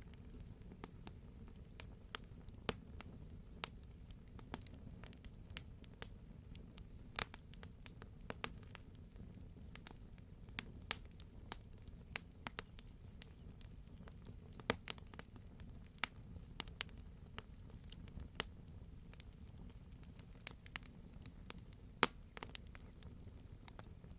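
Wood campfire crackling: irregular sharp pops and snaps from the burning logs over a steady low rumble of the flames, with one louder pop about two-thirds of the way through.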